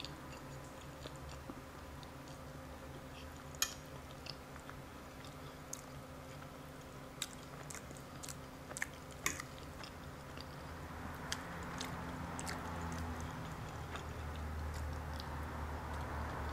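Close-miked chewing and mouth sounds of someone eating loaded carne asada fries, with scattered sharp clicks.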